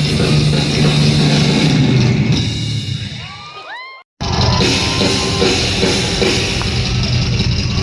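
Loud live rock music from a band playing in a large hall. About halfway through it fades out, cuts off for a moment, then comes straight back in at full level.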